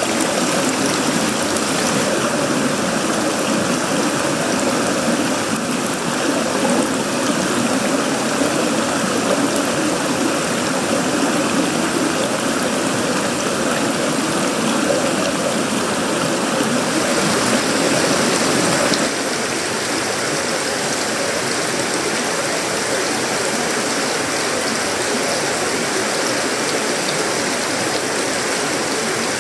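Heavy tropical rain falling on a sheet-metal roof, wood and leaves: a steady rushing hiss. About two-thirds of the way through, a fuller, lower part of the sound stops abruptly, leaving a slightly quieter, even hiss.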